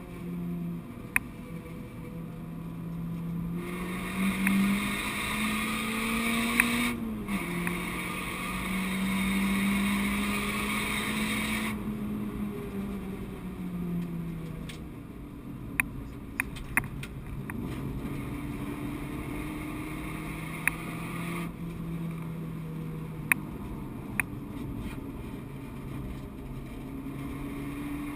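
Renault Clio 172's 2.0-litre four-cylinder engine heard from inside the cabin under hard track driving. The engine note rises and falls with the revs, with a brief drop about seven seconds in, as at a gear change. A rushing noise swells between about four and twelve seconds in, and there are a few sharp clicks.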